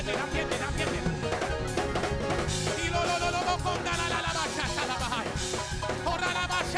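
Upbeat live church praise music with a drum kit, with voices singing over it.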